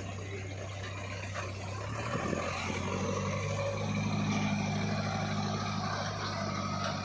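Heavy diesel machinery running steadily, with a low engine hum. About two seconds in, a second, stronger engine note joins and grows a little louder through the middle.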